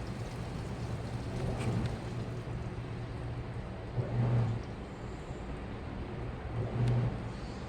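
Washing machine running mid-cycle: a steady motor hum with the drum churning, swelling louder about every two and a half seconds.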